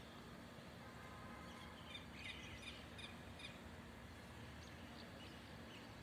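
Faint chirping of small birds: a quick cluster of short high chirps about two seconds in, then a few single chirps later, over a faint steady hum.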